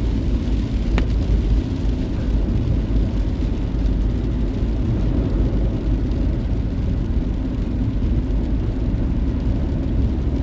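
Steady low road and engine rumble heard inside a moving car's cabin, with a single faint click about a second in.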